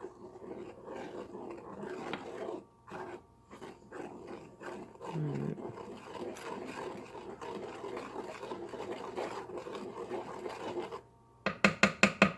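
Spoon stirring and scraping a thick mix of melted shortening, peanut butter, cornmeal and oats around a pan as it heats toward a simmer. Near the end come about seven quick, sharp taps.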